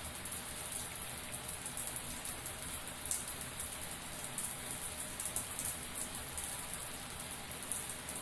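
Shower running: a steady spray of water falling and splashing, with a dense patter of drops.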